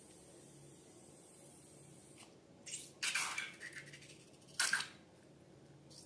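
Slime being handled, with a few short wet squishes and crackles in the middle, the longest lasting nearly a second, over a faint steady hum.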